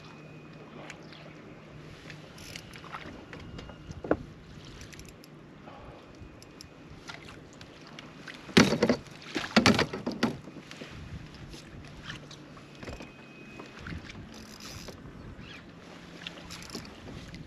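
Sounds aboard a fishing kayak: a low steady hum and scattered light knocks, with two loud rushing bursts about halfway through.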